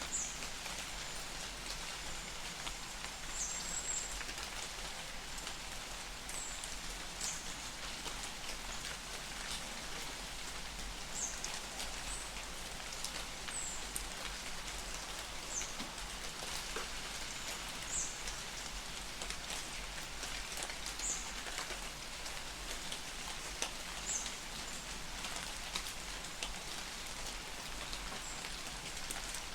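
Light rain falling in a forest, a steady patter with many individual drops ticking close by. A bird gives short high chirps every second or two throughout.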